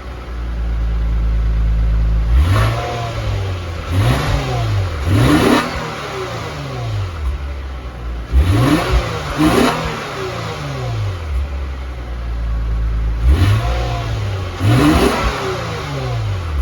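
Lexus IS350's 3.5-litre V6 through its stock exhaust, idling and free-revved in neutral: about seven short throttle blips in three groups, each rising in pitch and falling back to a steady idle.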